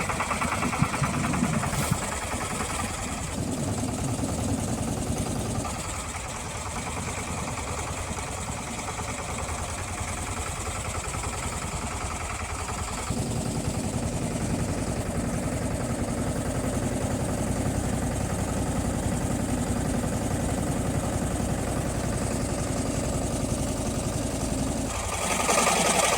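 Motorboat engine running steadily, its note shifting a little partway through; near the end the sound turns louder and brighter.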